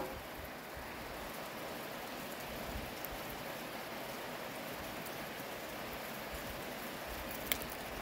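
Steady rain falling, with a single sharp click about seven and a half seconds in.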